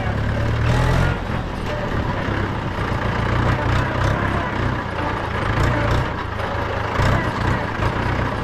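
Mahindra 475 DI tractor's four-cylinder diesel engine running with a deep, steady low throb and scattered short knocks.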